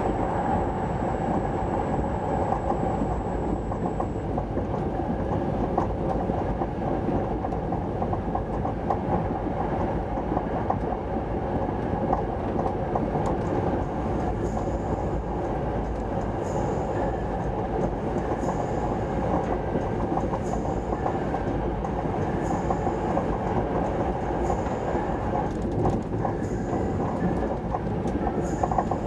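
Cabin noise inside an SJ 3000 (X55) electric train running at speed: a steady rumble of wheels on rail. Faint regular clicks come in about halfway through.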